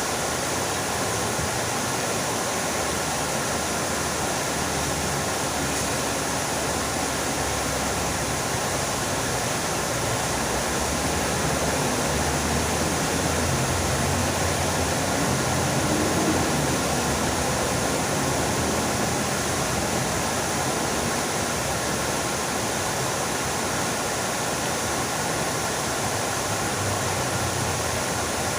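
Fountain water splashing steadily, a dense even rush of falling water that swells a little in the middle.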